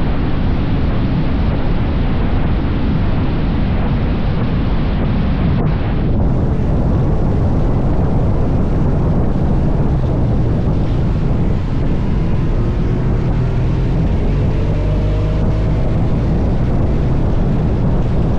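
Motorcycle engine running at road speed under heavy wind noise on the microphone, with a steady low rumble and faint rising engine notes in the second half.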